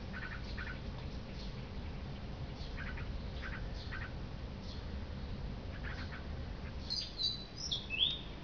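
Birds chirping, short calls repeated every half second or so, with a few louder, higher sliding calls near the end, over a steady low rumble.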